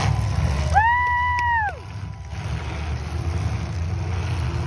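Demolition derby cars' engines rumbling, with one horn blast about a second in that lasts about a second, its pitch rising as it starts and sagging as it dies away.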